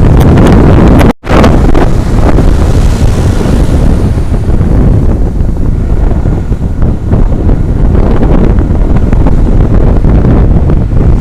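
Heavy wind buffeting the microphone of an action camera riding on a moving truck, a loud, steady low rumble that cuts out for an instant about a second in.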